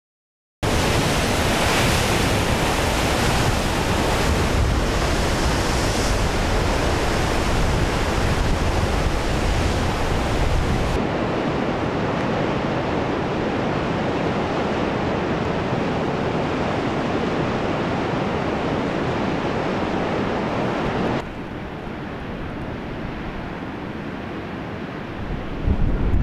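Ocean surf and wind rushing over the microphone, a steady noise with no speech. It drops abruptly in level twice, and a brief louder gust or bump comes near the end.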